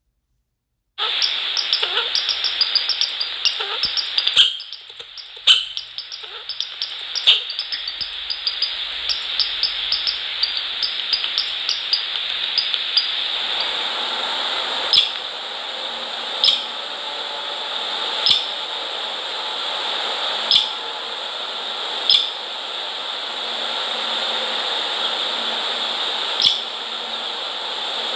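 Quick pecking taps and clicks at a bird feeder over a steady hiss. They come close together for the first dozen seconds, then thin out to single sharp knocks every second or two.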